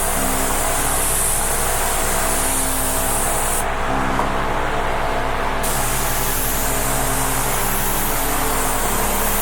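Paint spray gun hissing steadily as it lays a final coat of metallic silver paint onto a guitar body, held back from the work so the spray pattern widens and dusts the metallic flakes evenly.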